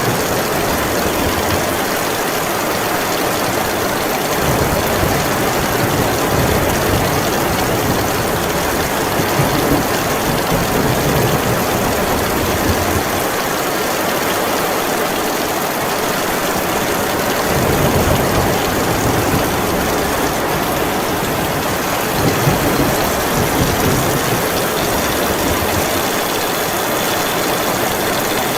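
Heavy, steady rain, with low rumbles from the storm swelling and fading several times underneath.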